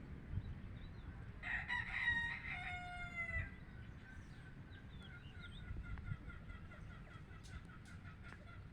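A rooster crowing once, a call of about two seconds starting a second and a half in. Faint, rapid bird chirping follows.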